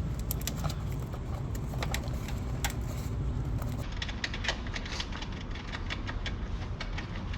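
Scattered light clicks and rattles of wiring and plastic cable clips being handled and snapped back into place, over a steady low rumble.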